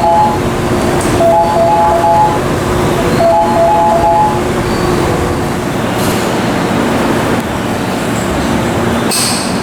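Electric train running, with a steady hum. A two-note electronic chime sounds three times in short groups about two seconds apart, and a brief hiss comes near the end.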